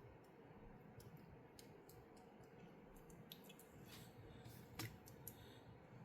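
Faint, irregular clicks and light taps of plastic Lego pieces being handled and pressed together, the sharpest click just before five seconds in.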